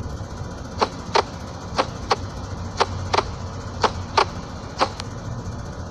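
Sharp knocks in pairs about a third of a second apart, repeating about once a second, over a low steady rumble.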